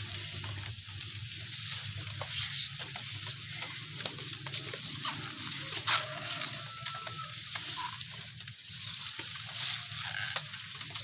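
Hands digging and scraping in soft, wet soil to uncover arrowroot corms: irregular small scrapes and clicks, one a little louder about six seconds in.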